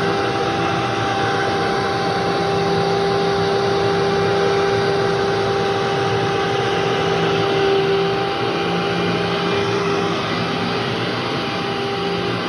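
Vacuum cleaner running steadily over carpet: a constant motor hum over the rush of air, dipping slightly about eight seconds in.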